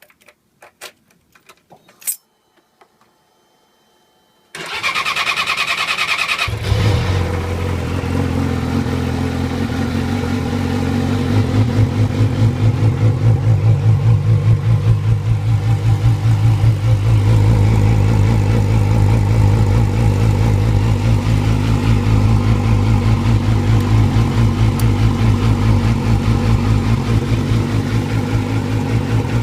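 A few clicks, then a 2006 Yamaha R6's inline-four cranks on the starter for about two seconds, catches, and settles into a steady idle through a Toce aftermarket exhaust.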